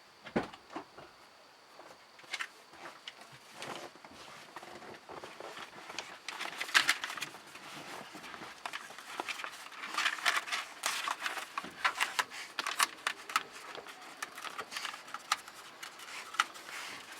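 Self-adhesive foam insulation sheet being handled and stuck onto a car's metal roof skin: crackling and rustling of the sheet and its peeled backing paper, busiest from about six seconds in, with a few dull thumps near the start.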